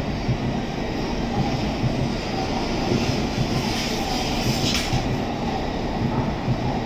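N700A Shinkansen train rolling slowly alongside the platform as it pulls in to stop, a steady low rumble. A brief hiss comes about five seconds in.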